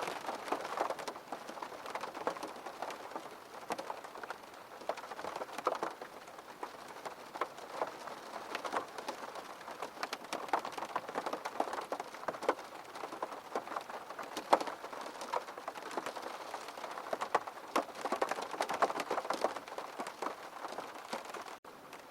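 Steady rain, with many individual drops striking a surface distinctly over the continuous hiss. There is a momentary dropout near the end.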